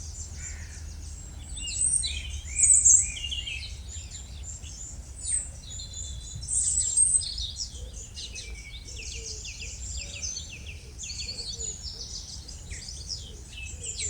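Small birds singing and chirping in a busy chorus of quick, high notes, with a few louder calls around three and seven seconds in, over a steady low background rumble.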